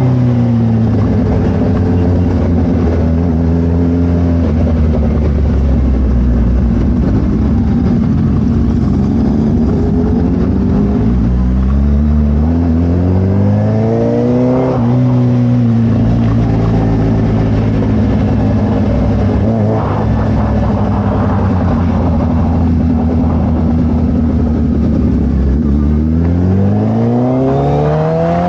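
Suzuki Hayabusa's inline-four engine through a Brocks carbon full exhaust, pulling at steady revs for long stretches. The revs climb twice, about halfway through and near the end, and drop back after each climb as the bike accelerates.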